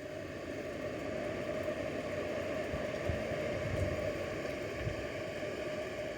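A steady engine drone that slowly swells in level, with no distinct strikes or breaks.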